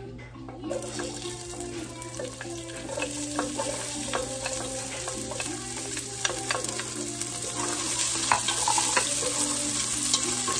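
Chopped onion hitting hot oil in a cooking pot and sizzling, starting about a second in and growing louder as more goes in. A wooden spoon scrapes and clicks against the plate and pot as it is pushed in and stirred.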